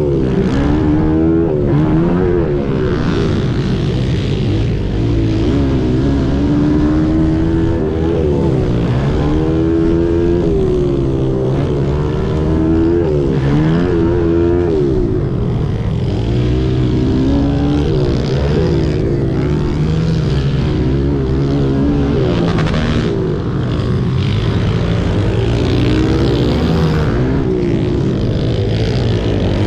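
Several 90cc and 110cc pit bike engines running at once, their pitch repeatedly rising and falling as they rev up and drop off.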